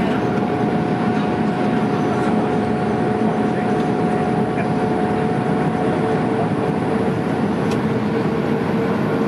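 Steady cabin noise of an Airbus A310 in flight: the continuous rush of engines and airflow, with two steady hums over it, the higher of which fades out about seven seconds in.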